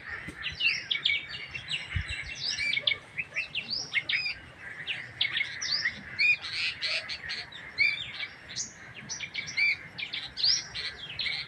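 Small birds chirping in quick, overlapping, repeated calls with no break.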